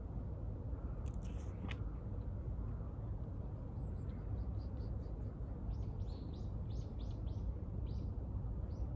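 A small bird chirping: one sharp high call about a second in, then a run of short high chirps, about two to three a second, through the second half. A steady low outdoor rumble runs underneath.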